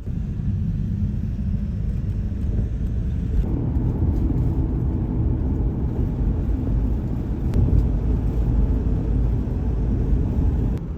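Road noise inside a moving car's cabin: a steady low rumble of tyres and engine, which grows fuller and a little louder about three and a half seconds in.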